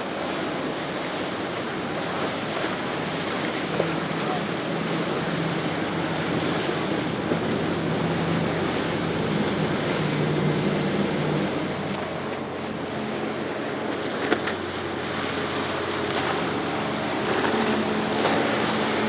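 Engines of a sport-fishing boat running past at speed through an inlet, a steady engine hum with the rush of water and wind. The engine pitch shifts about twelve seconds in as one boat passes and another comes on.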